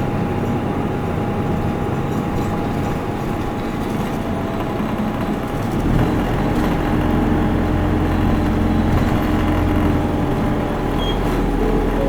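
Isuzu Erga Mio city bus's four-cylinder diesel engine running as the bus drives, heard from inside the cabin with steady road and body noise. About six seconds in, the engine note deepens and grows louder as it takes on more load.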